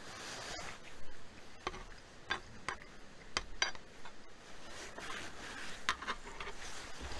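Light metal clinks and taps of camp cookware and utensils, about eight at irregular intervals, some ringing briefly, with soft rustling between them.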